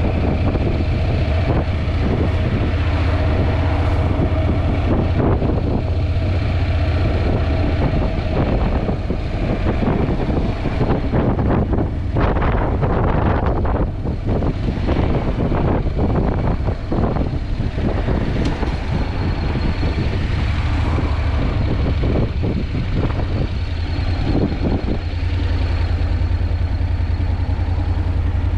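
Honda NC750X parallel-twin engine running on the move, with heavy wind buffeting on the helmet-or-bike-mounted microphone. The wind flutter thickens for much of the middle and eases again near the end.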